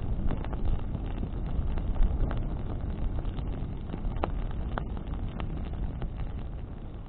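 Bonfire burning in a wind: a steady low rumble of wind on the microphone and flame, with a sharp crackle of burning wood every second or so.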